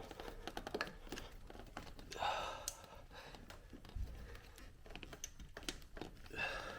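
Faint scattered clicks and taps of a motorcycle carburetor being worked by hand into its rubber intake boot and clamps, with a breath of effort about two seconds in.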